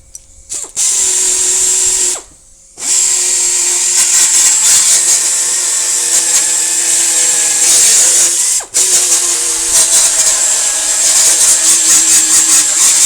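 Handheld power tool running against a car's steel body panel during dent repair, with a steady motor hum and hiss. It starts about a second in, stops for half a second around two seconds, drops out briefly past eight seconds, then runs on, pulsing rapidly near the end.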